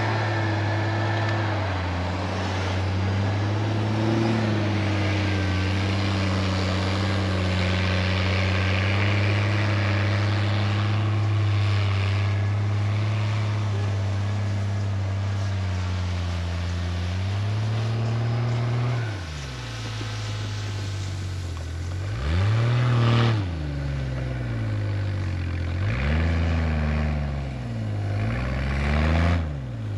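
Off-road 4x4 engine working under load while pulling a vehicle out of deep snow on a tow rope. It runs steadily at first, then revs up and down several times in the last third, with the loudest revs near the end.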